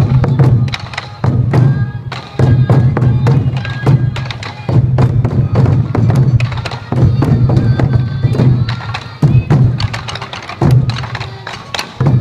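Sansa odori festival music: a group of sansa taiko drums beaten together in a fast, driving rhythm, with high transverse flutes (fue) playing a melody over them.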